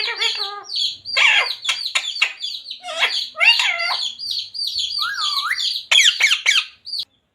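Green parrot calling in a quick run of short chirps and squawks, many sweeping down in pitch, some wavering. The calls stop abruptly shortly before the end.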